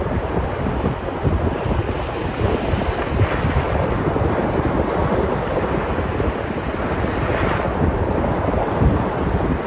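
Sea surf washing onto the shore in a continuous rush, with waves breaking and swelling louder about three seconds in and again near the end. Wind rumbles on the microphone underneath.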